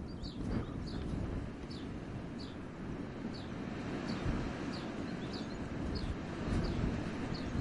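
Wind gusting through a forest, with a low rumble of wind on the microphone. Over it a small bird repeats a short, high, falling chirp about every half second to second.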